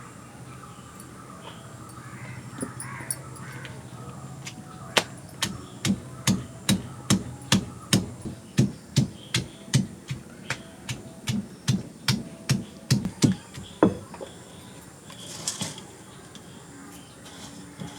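A steady run of about twenty sharp strikes, roughly two a second, stopping after about nine seconds: a blade chopping on a hard surface.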